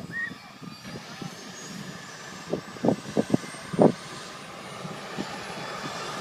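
Air-ambulance helicopter's turbine engine running up before take-off: a steady rushing noise with a faint high whine slowly rising in pitch and getting louder. A few dull thumps cluster around the middle.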